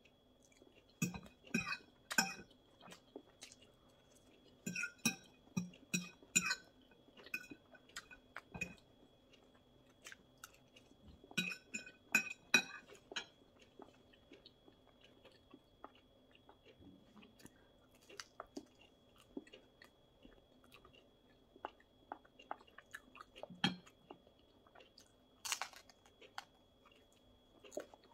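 Close-up chewing and crunching of thin, crisp flammkuchen crust, in clusters of bites with quieter spells of chewing between. A short hiss about 25 seconds in.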